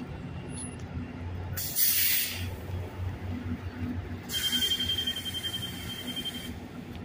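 Stadler FLIRT diesel multiple unit standing at the platform, idling with a steady low hum. Two bursts of compressed-air hiss, a short one about two seconds in and a longer one from about four seconds in that carries a thin steady whistle.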